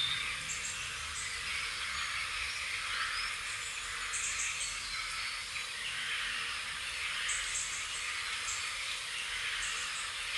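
Small birds chirping: short high chirps a few times over a steady outdoor hiss of background noise.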